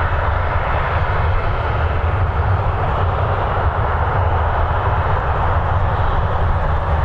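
Jet airliner engines running, a steady noise with a deep low rumble underneath that holds level throughout.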